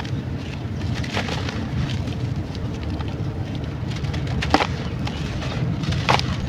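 Sandy clay crumbling in water: a steady low wet rumble with a few sharp crackles, the loudest about four and a half seconds in and another about six seconds in.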